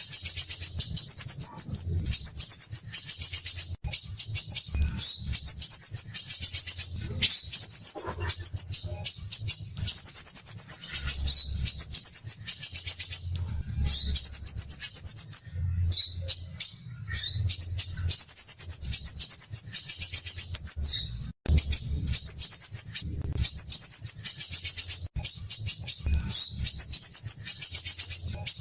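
Crimson sunbird (sepah raja) singing: high, rapid, dense rattling trills in phrases of one to two seconds, repeated one after another with short breaks.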